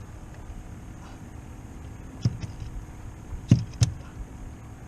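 Three sharp knocks against a steady low rumble: one about halfway in, then two louder ones close together near the end.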